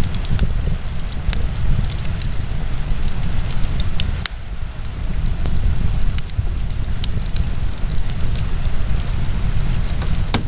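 Wood fire burning in a fireplace, crackling with irregular sharp pops over a steady low rumble; one louder pop about four seconds in and another near the end.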